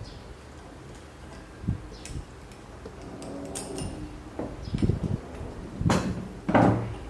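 Scattered knocks and clunks of metal machine parts being handled and fitted together on the CNC Z-axis assembly, busier from about halfway, with the two loudest clunks near the end.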